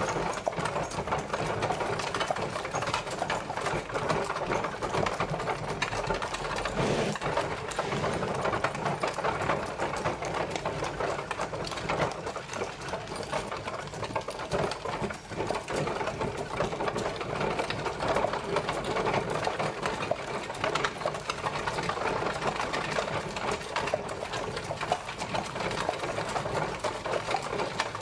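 Horse-drawn carriage on the move: a dense, steady rattling clatter of the carriage with no let-up.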